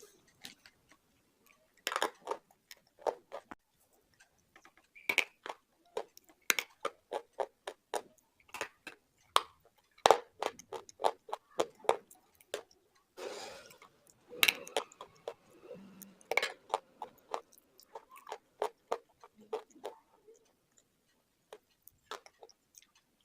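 Slate pencil being bitten and chewed: sharp, irregular crunches and clicks with short pauses between them.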